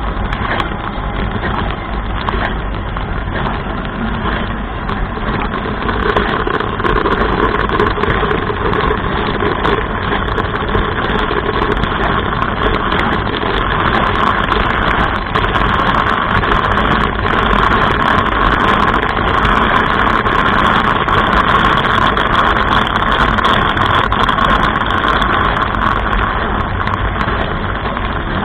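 Dishwasher running mid-wash, heard from inside the tub: a steady hum from the pump under a continuous rush of water sprayed against the dishes and walls, a little louder from about six seconds in.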